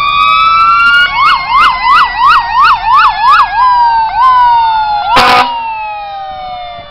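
Fire truck sirens, several overlapping: a yelp sweeping up and down about three times a second, then slower sweeps, over a wailing siren that slowly falls in pitch as it winds down. A short horn blast comes about five seconds in.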